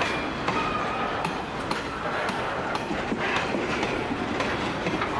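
BGKF grain hopper wagons of a freight train rolling past, a steady rumble of wheels on rail broken by irregular clicks and clunks, with a few brief, faint high-pitched wheel squeals.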